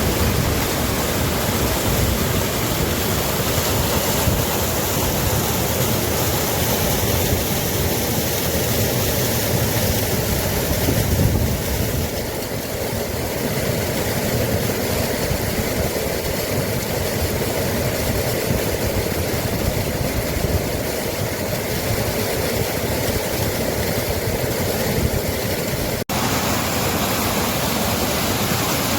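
Steady rushing roar of a waterfall, loud and unbroken.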